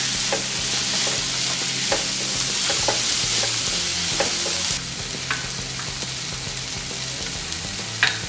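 Onions and bell peppers sizzling in hot oil in a kadhai while a wooden spatula stirs them, its light clicks against the pan scattered through the steady sizzle. About halfway through the stirring and sizzle drop a little, and a sharper knock of the spatula comes near the end.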